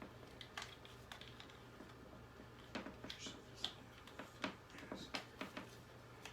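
Irregular light plastic clicks and taps of a hairdryer plug being fumbled against an electrical outlet, its prongs not going in. The clicks come thicker and a little louder from about three seconds in.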